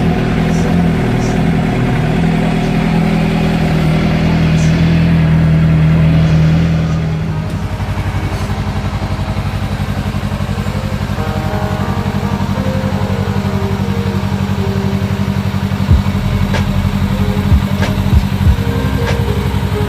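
Motorcycle engine running at raised revs for about seven seconds, then dropping back to a steady idle. A few sharp clicks come near the end.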